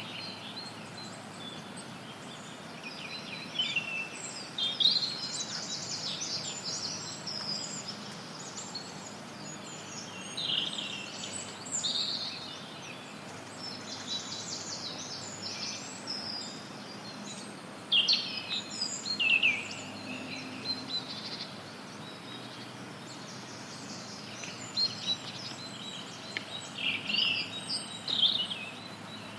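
Several songbirds singing and chirping over a steady even hiss of added white noise, with calls and short trills coming every few seconds.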